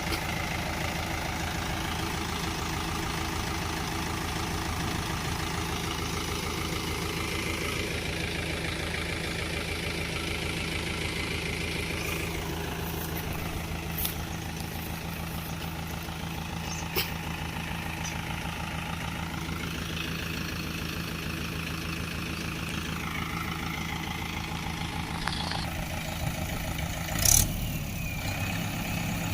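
Swaraj 843 XM tractor's diesel engine idling steadily. There are a few light clicks, and a short, louder knock near the end.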